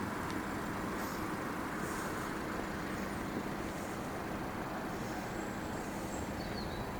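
Steady road traffic noise, with vehicle engines running at the level crossing.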